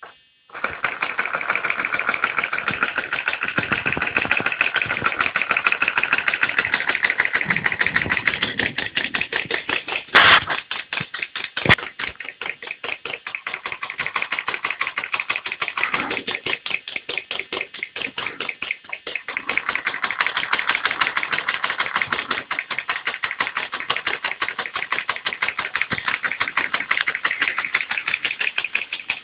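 Homemade piston electric motor running, with a fast, even clatter of piston strokes that starts about half a second in. Two sharper knocks come near the middle.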